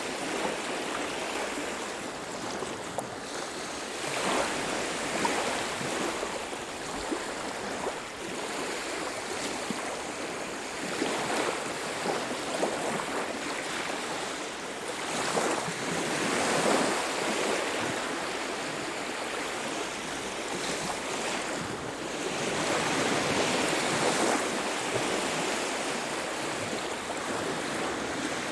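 Ocean surf on a beach: waves breaking and washing up the shore in a continuous rush that swells and eases every few seconds.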